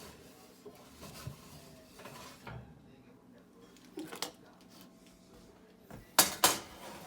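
Metal kitchenware clattering as a baking tray of sticks is pulled from the oven: quiet handling noises, a knock about four seconds in, then two loud sharp clanks near the end.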